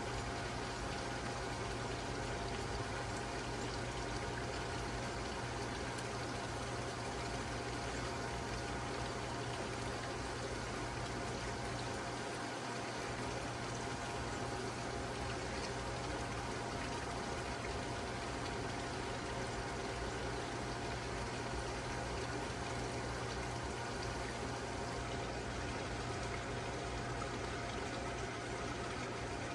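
Steady running water over a constant low mechanical hum.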